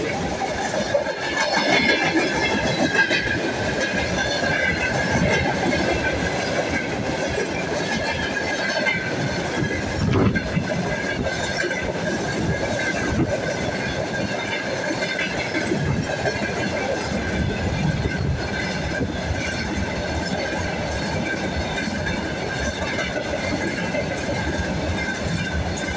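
Freight train wagons rolling past close by at speed: a continuous rumble with wheels clattering over the rail joints and a steady high-pitched whine over it. One sharp, louder clank about ten seconds in.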